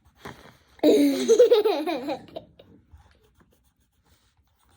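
A child laughing in one loud burst of about a second and a half, starting about a second in.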